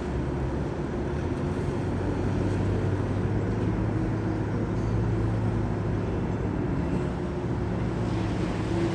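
A steady, low vehicle engine drone with road or running noise, unchanging throughout.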